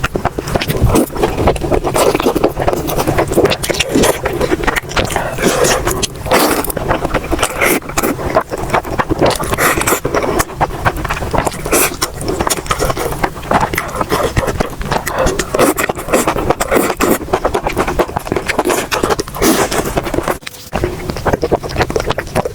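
Close-miked eating sounds: food being chewed with a dense, continuous run of wet smacks and clicks, with a short lull about twenty seconds in.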